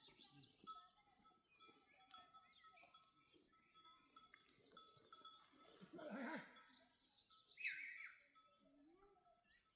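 Goats in a flock bleating faintly, with one clearer bleat about six seconds in, and small livestock bells tinkling.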